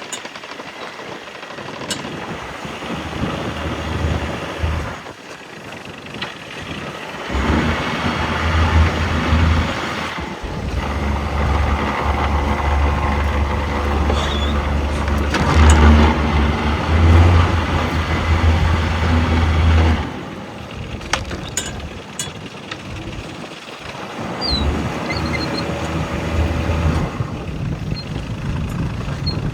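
Catalina 28 sailboat's inboard diesel engine running under power while manoeuvring to dock. It rises to a louder, harder-working note for a long stretch in the middle, eases back, then picks up again briefly near the end.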